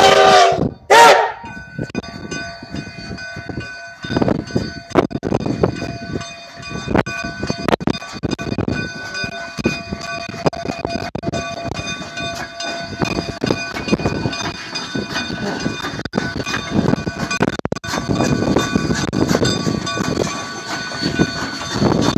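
Narrow-gauge steam train of the Cumbres & Toltec Scenic Railway working, with irregular puffs and clanks over a faint steady hum. A burst of music cuts off about a second in.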